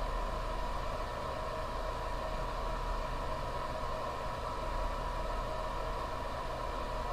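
A steady, even hum and hiss with a thin constant whine, unchanging throughout.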